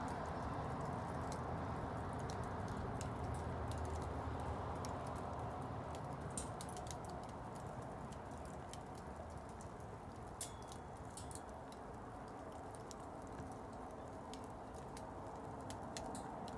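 Wood bonfire burning: a steady low rush of flame with scattered sharp crackles and pops from the burning wood.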